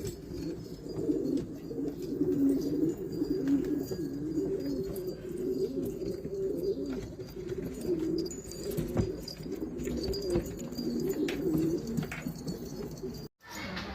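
Several domestic pigeons cooing at once, their coos overlapping continuously, with a few faint clicks. The sound cuts out for a moment near the end.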